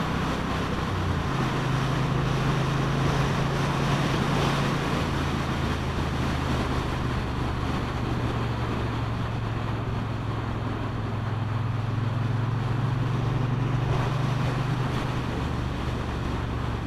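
Motorcycle engine running steadily under way, with wind rushing over the microphone. The engine note drops about a second in.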